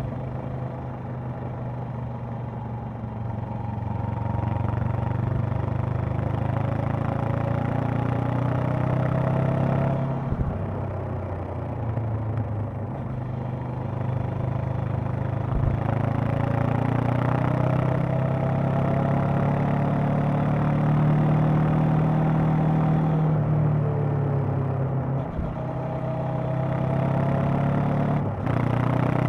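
Honda CB500X's parallel-twin engine and exhaust under way. The revs climb in long rising pulls and drop back sharply several times as the rider accelerates, shifts and eases off the throttle.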